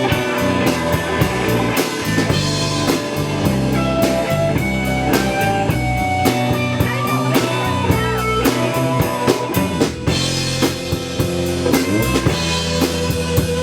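Live rock band playing an instrumental passage: drum kit with snare and bass drum keeping a steady beat under electric guitar and bass.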